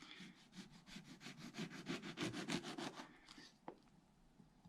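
Kitchen chef's knife sawing through a lemon, its edge rasping in a fast, even run of strokes that stops about three seconds in, followed by a single faint tap. The knife needs a sawing motion because its edge does not take a keen edge well.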